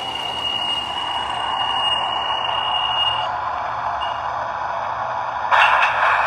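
MTH O-gauge model subway train running on its layout: a steady hiss from the sound system and motors with a thin high whine that stops partway through, then about five and a half seconds in a louder rattling, clicking sound starts.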